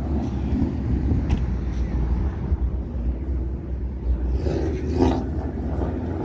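Car engine running at idle, a low steady rumble, with a short louder sound about five seconds in.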